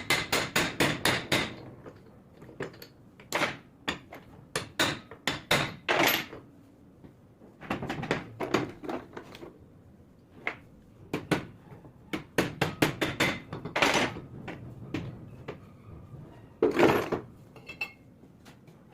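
A hammer tapping on metal in quick runs of sharp blows, several a second, with short pauses between runs and one heavier blow near the end.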